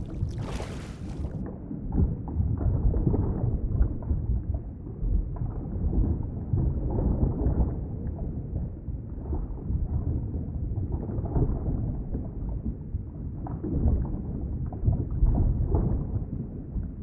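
Underwater ambience: a deep, muffled rumble with irregular surging swells, water heard as if from below the surface. About a second in, the brighter hiss drops away and only the low, muffled wash remains.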